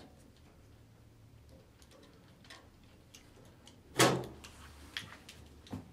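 Faint clicks of a hand tool working on a sheet-metal ceiling light fixture, then a single loud clunk about four seconds in as the fluorescent light ballast comes loose against the fixture housing, followed by a couple of lighter knocks.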